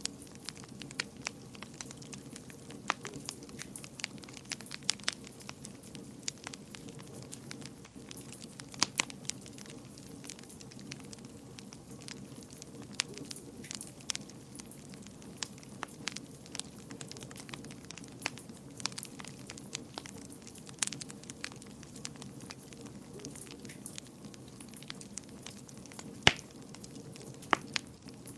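Wood fire burning in a fireplace, crackling with irregular sharp pops and snaps over a steady low rush of flame; one pop is louder about 26 seconds in.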